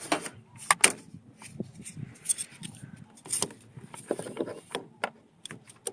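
Irregular clicks, knocks and rubbing of jumper cables and clamps being handled on a car battery.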